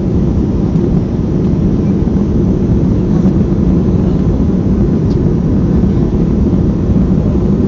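Steady rumble of a Boeing 737-300's CFM56-3 jet engines and airflow, heard from inside the passenger cabin in flight, with no change in level.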